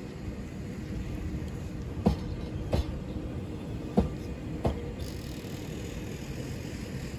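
Taiwan Railway EMU3000 electric multiple unit pulling out slowly: a steady rolling rumble with a low hum, and sharp wheel clacks over a rail joint, in two pairs about 0.7 s apart as each bogie's wheelsets cross it.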